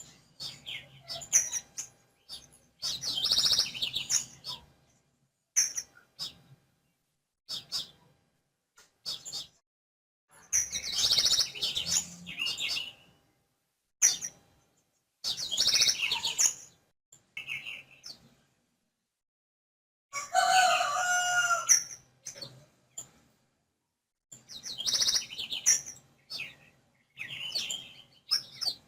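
Small birds chirping in short bursts a second or two apart, with one longer burst of lower notes about twenty seconds in.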